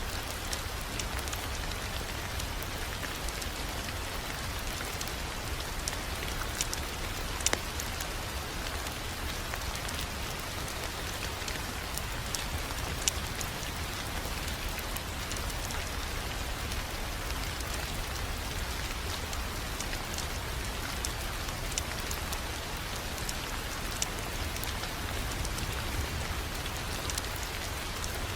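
Wood fire crackling in a fireplace: a steady hiss with scattered sharp pops and snaps over a low rumble.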